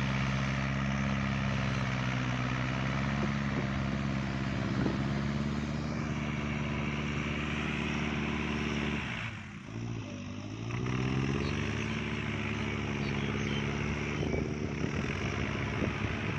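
Kubota tractor's diesel engine running steadily under load while it pulls a rotary tiller through wet mud. About nine seconds in, the engine note sags, then climbs back up over a second or two.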